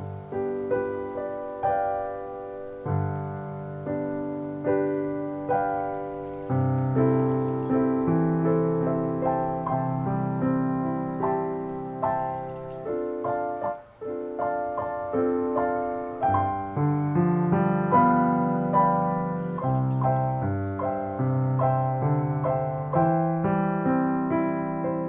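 Background piano music: a gentle melody of struck notes that ring and fade, with a short pause about fourteen seconds in.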